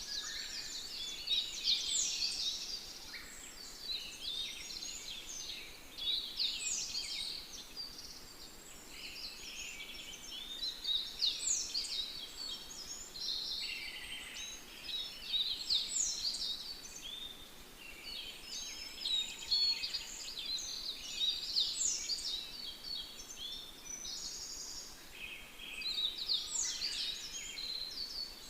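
High-pitched chirping bird calls, many quick notes falling in pitch, coming in bursts about every two to three seconds.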